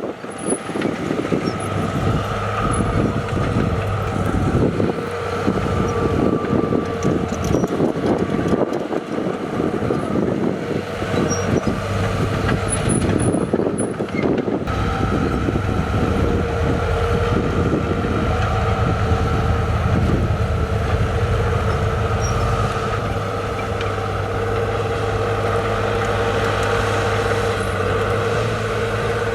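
Diesel engines of heavy earthmoving machines, dump trucks and a bulldozer, running steadily under load, with a heavy rumble. The sound changes abruptly about halfway through.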